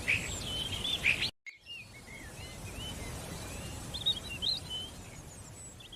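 Small songbirds chirping and calling over a steady outdoor background hiss. The sound cuts out completely for a moment about a second and a half in, then the chirping resumes.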